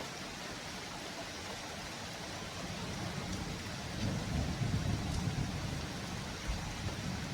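Steady hiss of rain, with a low rumble of thunder building about a third of the way in and loudest around the middle.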